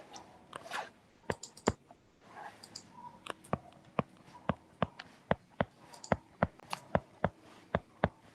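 Keys pressed one at a time, sharp separate clicks about two to three a second, as figures are keyed in for a calculation.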